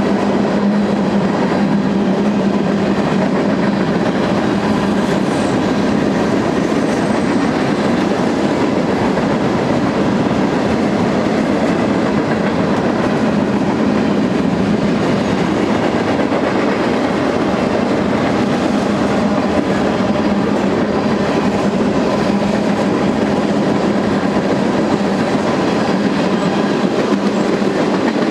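BNSF freight train cars rolling past at steady speed: the continuous loud noise of steel wheels running on the rails, unchanging for the whole span.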